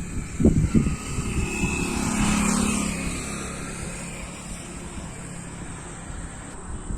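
A motor vehicle passing by, growing louder to a peak a couple of seconds in and then fading away, its pitch falling as it goes past.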